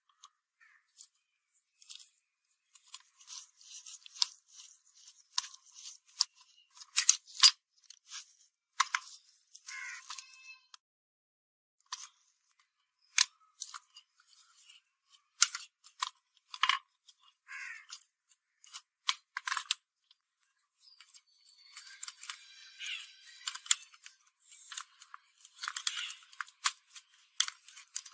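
Hand work on small metal parts: irregular sharp clicks and taps mixed with short scraping and brushing strokes, thin with no bass, pausing briefly twice.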